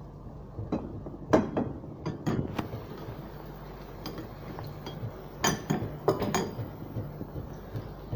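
Kitchen utensils clinking and knocking against dishes and a pan, about eight separate sharp clinks scattered over several seconds, over a low steady hum.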